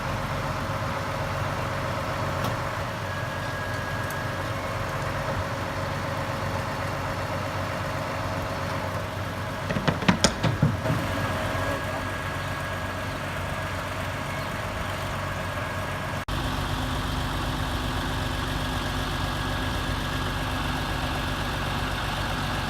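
Heavy vehicle engines running steadily during a lorry recovery, with a short burst of loud knocks about ten seconds in. About sixteen seconds in, the sound cuts abruptly to a similar engine drone.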